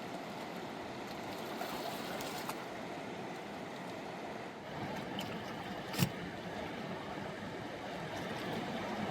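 Steady rush of a fast-flowing mountain river, with one sharp knock about six seconds in.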